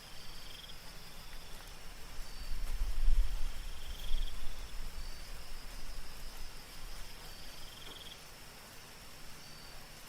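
Night insects, crickets among them: a steady high drone with short trills and chirps every few seconds over a soft even rain hiss. A low rumble swells about two seconds in and fades out by about seven seconds.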